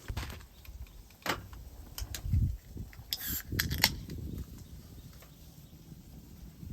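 A string of clicks, knocks and low thumps from objects being handled, with a brief hiss a little past three seconds in.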